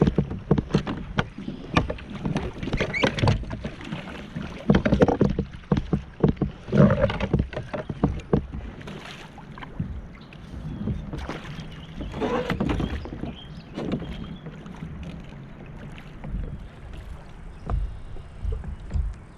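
Irregular knocks, clatter and splashing on a kayak as a hooked smallmouth bass is brought aboard. The busiest stretches are in the first several seconds and again about twelve seconds in.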